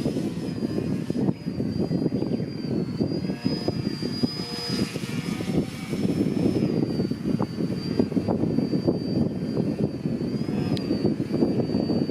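TechOne Slick radio-controlled model airplane flying, its motor and propeller giving a thin high whine that rises slightly in pitch about four seconds in and then eases back. Strong wind buffets the microphone with a loud, choppy rumble that is louder than the plane.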